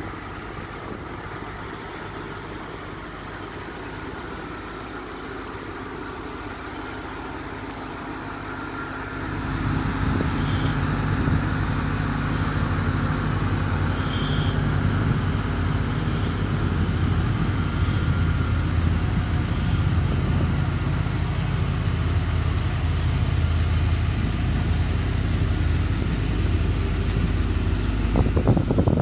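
1989 Chevrolet Corvette C4's 5.7-litre V8 idling steadily, getting louder about nine seconds in.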